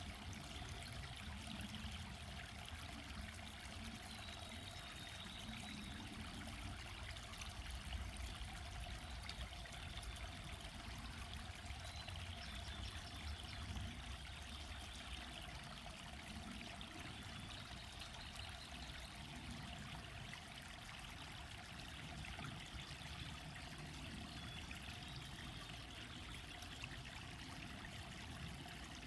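Mountain valley stream, water running and trickling steadily.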